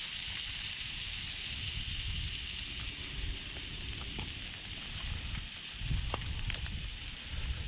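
Meat sizzling steadily on a small iron griddle plate over a wood campfire, with occasional crackles and pops from the fire.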